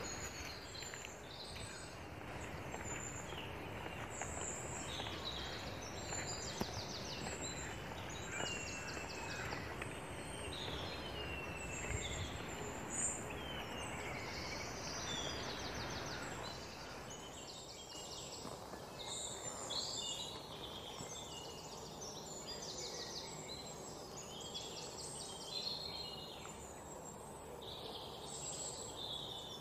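Many birds calling in trees: repeated chirps, short falling whistles and buzzy trills, with a steady outdoor background noise that eases a little about halfway through.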